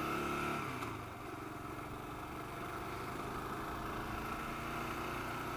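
2009 Kawasaki KLR650's single-cylinder four-stroke engine running while riding along a highway, heard from the bike with wind noise. The engine note drops back about a second in and then holds steady.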